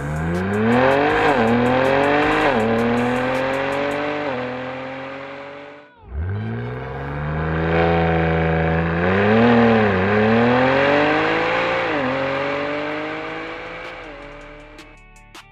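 BMW G80 M3's S58 twin-turbo inline-six through a stainless catback exhaust under hard acceleration, the note climbing in pitch and dropping briefly at each upshift. It cuts off about six seconds in, then a second pull climbs through several more shifts and fades near the end.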